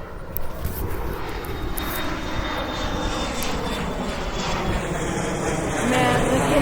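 Aircraft engine noise: a steady rushing sound with a low rumble, growing a little louder near the end.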